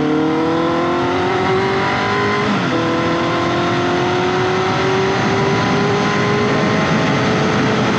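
Honda CBR650F's inline-four engine, through an SC Project aftermarket exhaust, pulling under acceleration with its pitch rising. After a brief break for an upshift about two and a half seconds in, it climbs steadily again.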